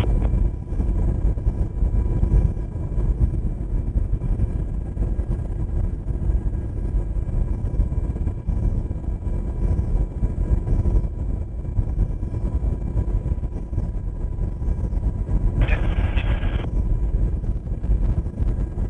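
UH-60 Black Hawk helicopter in flight, heard from inside the cabin: a loud, steady rotor and engine rumble with thin, constant gearbox and turbine whines above it.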